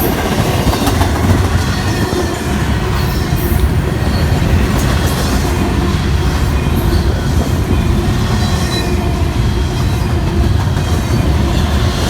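Freight train cars rolling past at speed: a steady, loud rumble and clatter of steel wheels on the rails.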